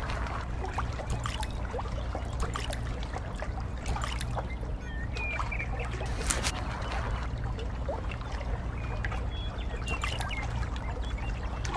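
Water trickling and splashing from a small hand net lifted out of a shallow pond with goldfish flapping in it, with irregular small splashes and clicks over a steady low hum.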